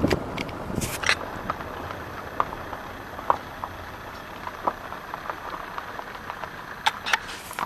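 A vehicle engine idling steadily, with scattered short clicks and taps throughout and a few sharper clicks about a second in and near the end.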